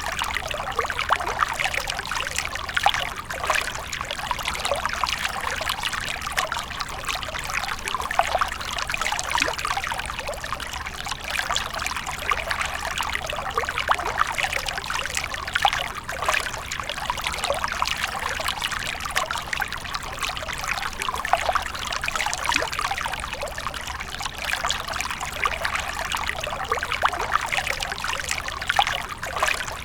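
Water fountain splashing and trickling steadily, a continuous bright patter of falling water.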